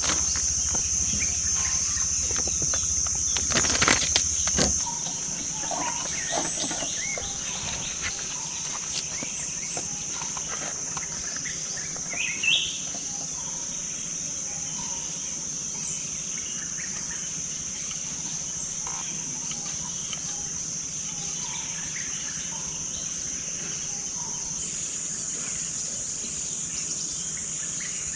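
Steady high-pitched drone of insects, with a few short rising bird chirps now and then. A handful of sharp clicks and knocks come about four seconds in.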